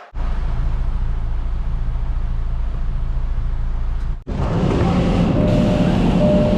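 Semi-truck running, a steady low rumble; it breaks off sharply about four seconds in and comes back louder and fuller.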